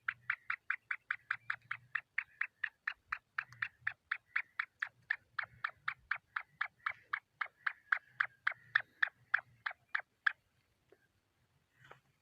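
A francolin (teetar) calling a rapid, even series of short sharp notes, about four or five a second, that stops about ten seconds in.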